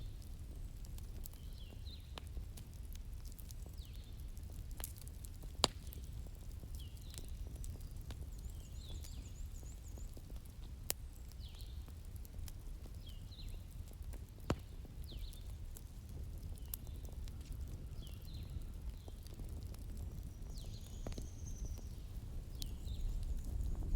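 Wood fire crackling, with a few sharp pops over a low steady rumble, while small birds chirp again and again in the background.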